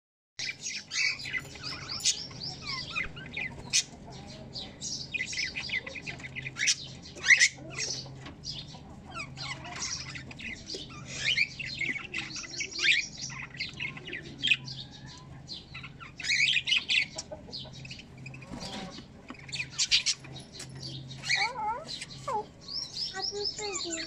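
Birds chirping in rapid runs of short, high-pitched calls with brief pauses, over a steady low hum.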